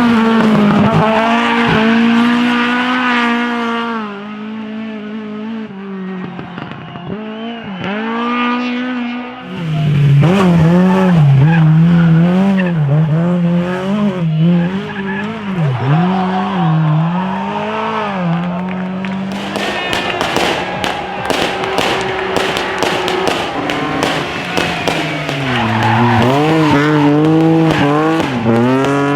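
Drift car engines revving hard up and down over and over as the cars slide, with tyres squealing. The engine sound drops back for a few seconds early on, then comes close and loud again.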